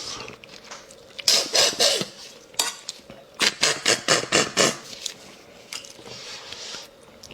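Bone marrow being sucked out of cooked bones: loud, wet slurps in two runs of quick pulls, the second a rapid series of about four sucks a second.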